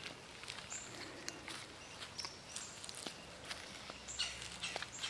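Faint outdoor swamp ambience: a few short, high bird chirps, the strongest about four seconds in, over scattered soft clicks.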